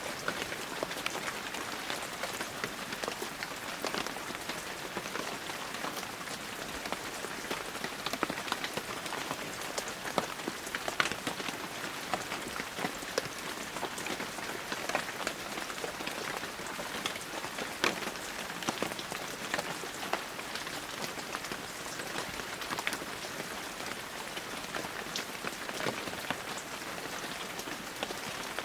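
Steady heavy rain falling, an even hiss broken by many sharp, close drop impacts.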